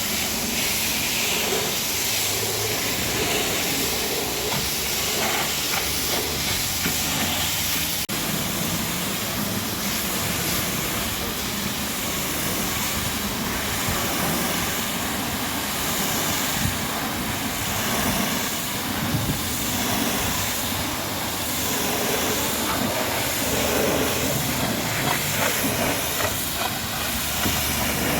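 Pressure washer jet spraying water with a steady hiss.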